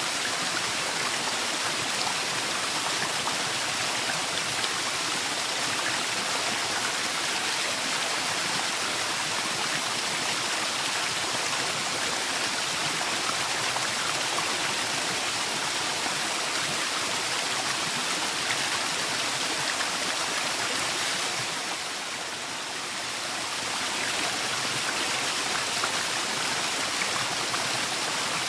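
Waterfall: a steady, continuous rush of falling water, briefly a little softer about three-quarters of the way through.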